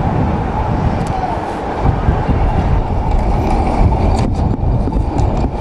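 Steady low rumble of downtown street traffic, with a heavy road vehicle running close by.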